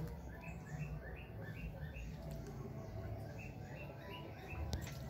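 A small bird chirping over and over, short faint notes about three a second, over a low background rumble.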